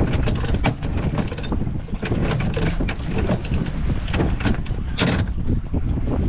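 Sailboat underway: a steady low rumble with frequent clattering and knocking aboard, the sharpest knock about five seconds in.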